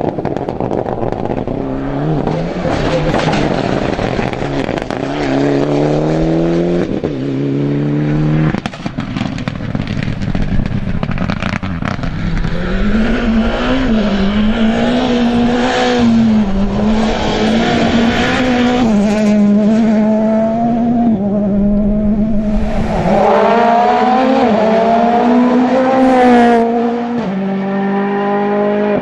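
Rally car engines at full throttle on a special stage. Early on the engine revs up through the gears with quick upshifts, then a car holds high revs with the pitch wavering. The sound changes abruptly about nine seconds in and again near the end, as from separate passes.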